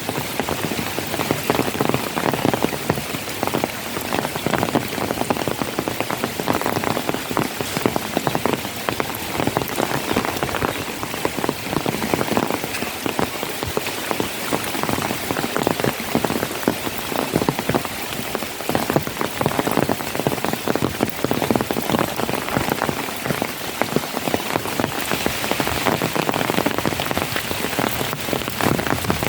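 Steady heavy rain, dense drops pattering on a surface without let-up.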